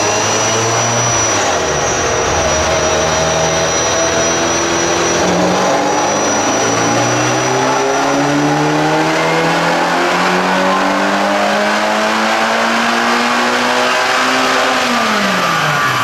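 Ferrari 348 tb's rebuilt 3.4-litre V8 on a chassis dyno pull: revs climb steadily under load for about ten seconds, then drop sharply near the end as the throttle closes.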